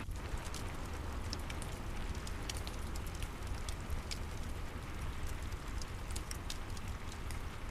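Steady rain with a low rumble, mixed with a fireplace crackling: scattered sharp pops and ticks over the even hiss of the rain.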